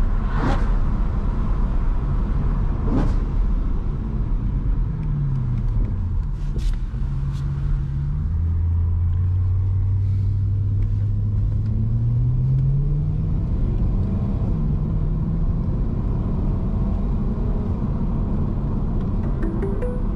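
BMW E92 M3's V8 engine heard from inside the cabin at road speed, over steady tyre and road rumble. The engine note falls, holds low for a few seconds, then climbs again. Passing vehicles whoosh by in the first few seconds.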